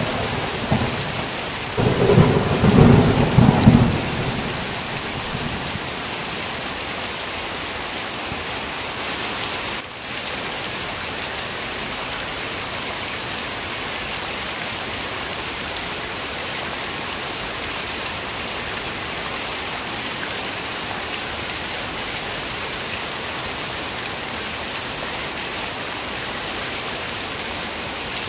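Heavy rain falling steadily, with a low rumble of thunder from about two to four seconds in.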